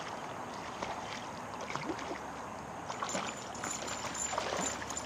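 Steady rush of water and wind around a small fishing boat on the water, with a few faint scattered clicks.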